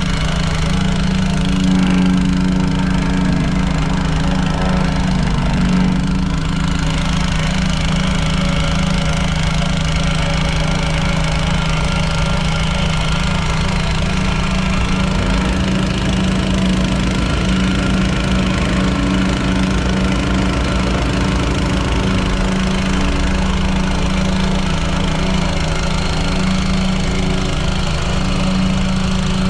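Engine of a piece of landscaping equipment running steadily, with a brief shift in its note about halfway through.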